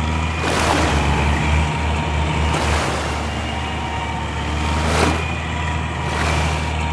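A steady low motor hum with several loud rushing swells, the sharpest about five seconds in.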